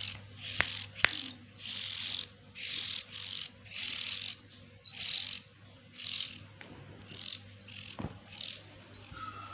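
Oriental magpie-robin (kacer) nestlings begging: a run of short, hissy calls about one a second, weaker near the end. A couple of sharp clicks come about half a second and a second in.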